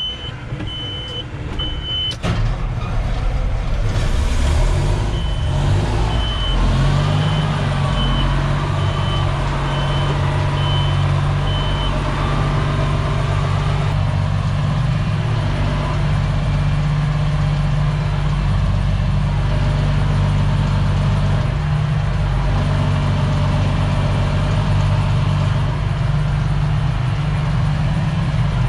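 A heavy diesel vehicle's engine running steadily, settling into an even drone after the first few seconds. A high warning tone sounds continuously for about two seconds, then a backup alarm beeps in an even rhythm until about twelve seconds in.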